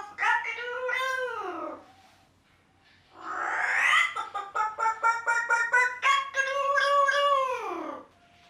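Pet parrot calling loudly: a long call that drops in pitch at its end, a short pause, a harsh screech about three seconds in, then quick pulsing notes and another long call that falls away near the end.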